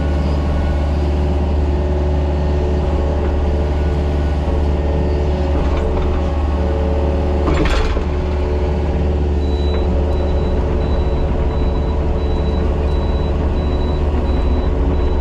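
Mini excavator's diesel engine running steadily at working speed, with a short rush of noise a little past halfway through.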